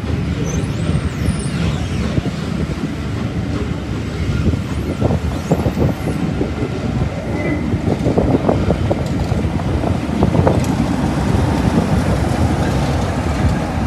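A train running past, a steady low rumble with the wheels knocking over rail joints now and then.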